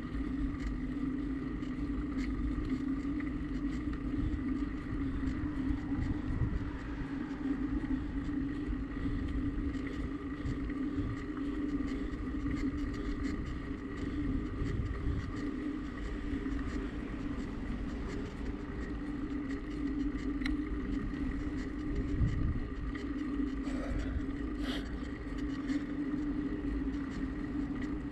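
Riding noise from a moving bicycle: a steady, unchanging hum with a rumble of wind on the microphone that comes and goes.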